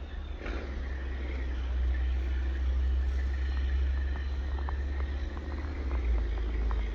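Low rumble of a car passing on a snowy city road, swelling about two seconds in, over steady outdoor hiss, with a few faint clicks later on.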